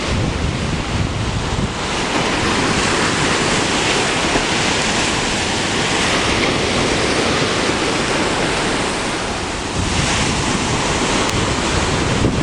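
Strong typhoon wind blowing hard across the microphone, mixed with the wash of heavy waves: a loud, continuous rush of noise.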